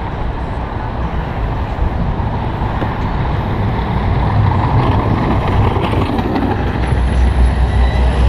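City street traffic heard from a moving bicycle: a steady wash of vehicle engines and road noise, with a deep engine rumble growing louder near the end.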